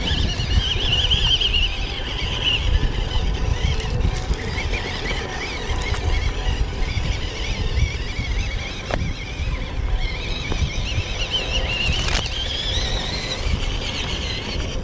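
Small electric motor and gearbox of a 1/16-scale RC truck whining, the pitch wavering up and down with throttle and load, over a low rumble. A couple of sharp clicks are heard, about nine and twelve seconds in.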